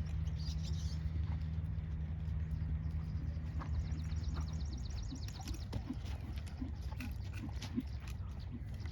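Horse's hoofbeats, soft and evenly spaced at about two a second, over a steady low hum that drops away about halfway through.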